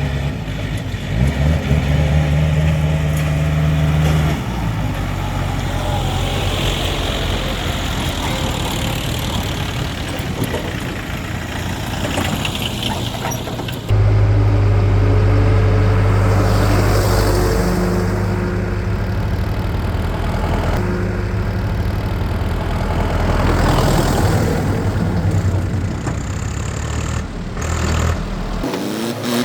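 Diesel engine of a tractor or backhoe loader running steadily. About halfway through, the sound jumps suddenly louder and deeper.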